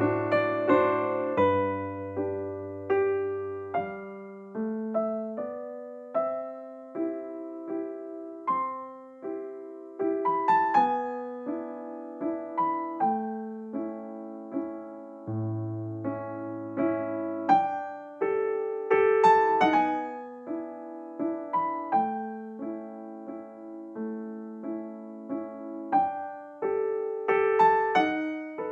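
Gentle background piano music: a melody over soft chords, each note struck and fading away.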